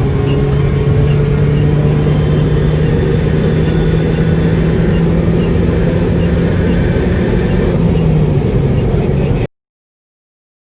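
Muffler-deleted 2008 Saab 9-3 Aero's 2.8-litre turbocharged V6 pulling under steady acceleration, its exhaust drone climbing slowly and evenly in pitch. The sound cuts off suddenly about nine and a half seconds in.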